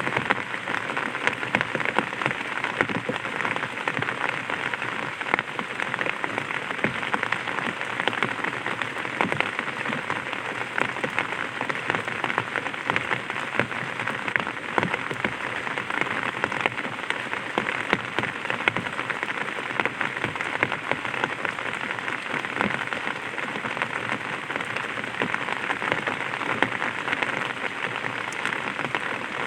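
Light rain falling on an umbrella: a steady, dense spray of small drops ticking on the canopy, unchanging throughout.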